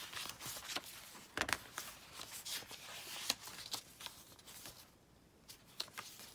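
Paper pages of a thick handmade junk journal being turned and handled: irregular rustling with light taps, quieter near the end.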